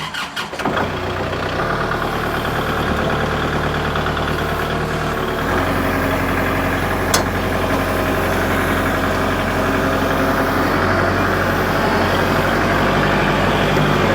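Kubota L47 backhoe tractor's diesel engine cranking briefly and starting, then idling steadily while cold, with the idle settling about five seconds in. A single sharp click about seven seconds in.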